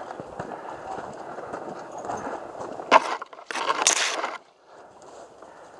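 Branches and brush rustling and cracking as someone pushes through them, with a sharp snap about three seconds in and a louder swish of branches just after.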